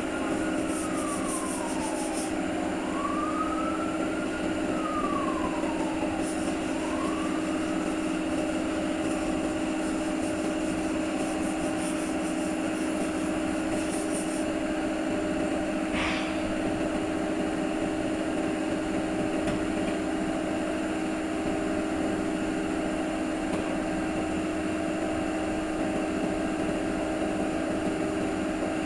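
A machine running with a steady drone and constant hum. A wail rises and falls three times in the first eight seconds, and there is a brief higher sound about sixteen seconds in.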